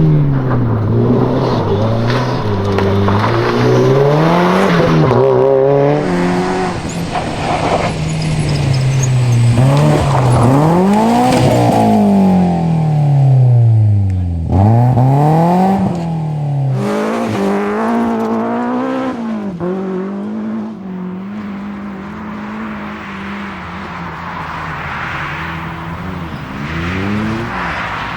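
Rally car engines revving hard, the pitch repeatedly climbing and dropping with gear changes and lifts off the throttle. About 14 seconds in, a car passes close with a sharp drop in pitch.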